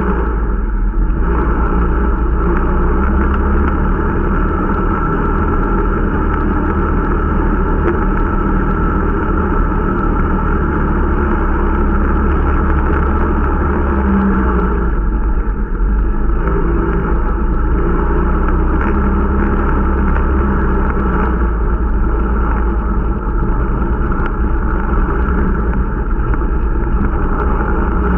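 Irbis Dingo T125 snowmobile's 125 cc four-stroke engine running steadily under way at a fairly even speed, with only small rises and falls in pitch. The machine is new and being run in.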